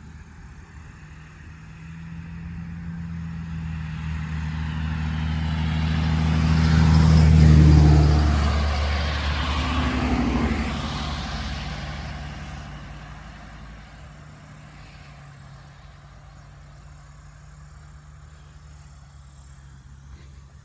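A road vehicle driving past, growing louder to a peak about seven or eight seconds in, its pitch dropping as it goes by, then fading away.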